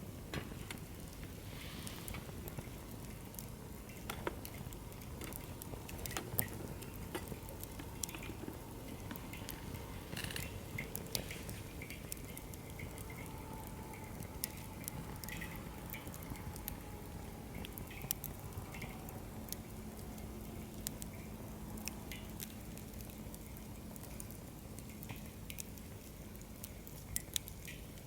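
Firewood burning in a campfire stand, with a steady low rush of flame and irregular sharp crackles and pops.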